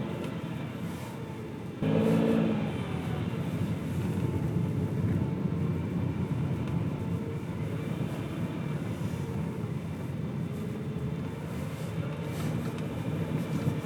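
A car driving, with steady road and engine noise as heard from a dashboard camera, and a sudden louder sound with a brief pitched ring about two seconds in.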